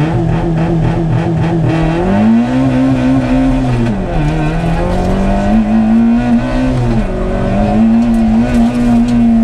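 Fiat SCS rally car's engine heard from inside the cabin, pulling hard through the gears. The revs hold steady for about two seconds, then climb, with the pitch dropping back at upshifts about four and seven seconds in.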